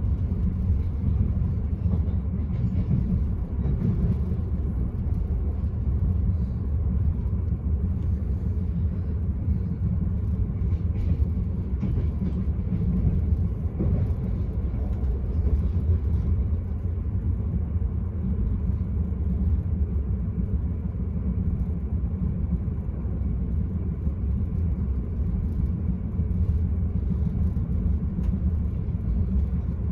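Steady low rumble of an Enterprise passenger train running along the line, heard from inside the carriage: the wheels and running gear on the rails, with faint light rattles over the top.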